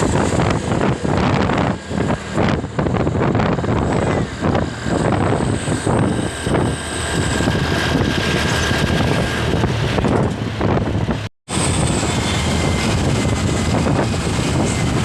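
Diesel truck engine running hard under full throttle, with wind buffeting the microphone. The sound cuts out for a moment about two-thirds of the way through.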